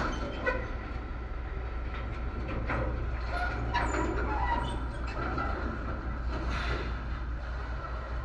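Heavy truck's diesel engine running steadily with a low rumble, with a few faint knocks and rattles over it.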